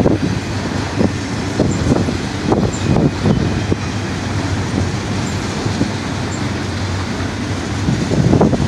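Freight train of autorack cars rolling past: a steady rumble of steel wheels on rail, with scattered sharp wheel clacks.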